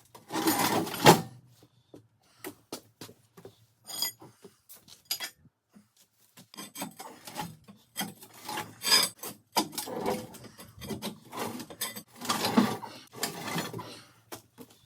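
Irregular scraping, rubbing and knocking of wood and metal being shifted by hand, with a long scrape in the first second and a short metallic clink about four seconds in.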